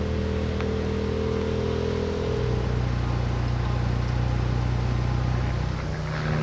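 Car engine running at low speed while backing a cabin trailer into a campsite. Its steady hum steps down to a lower note a little over two seconds in.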